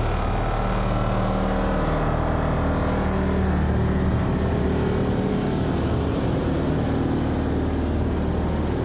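Truck engine running steadily, its pitch shifting slightly now and then.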